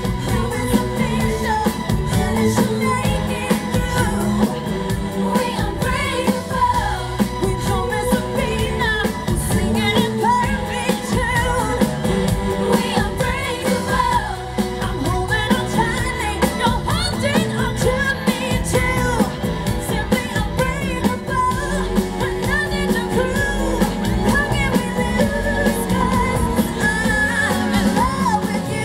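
Live pop music with singing over a full band backing with a steady beat, played through a PA system.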